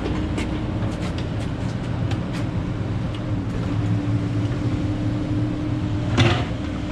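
Cat 308 mini excavator's diesel engine running steadily, with scattered light clicks and a short, loud, rising squeal-like sound near the end.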